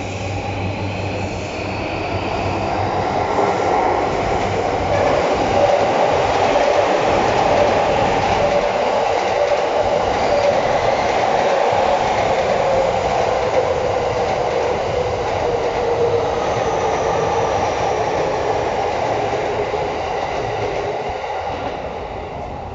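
JR East E231-1000 series electric train running through the station without stopping, the noise of its wheels on the rails swelling as the cars pass close and fading as the last cars draw away near the end.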